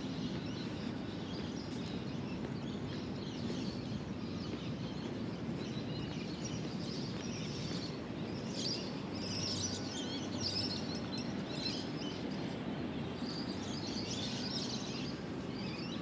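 Birds chattering and chirping in bursts, busiest about halfway through and again near the end, over a steady low outdoor rumble.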